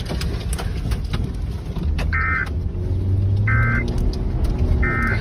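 A vehicle's engine running with a low hum that swells midway. Three short electronic beeps sound about a second and a half apart.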